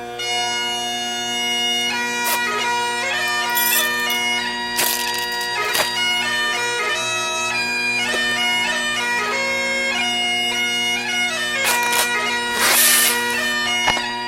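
Bagpipe music: a steady drone with a melody moving over it.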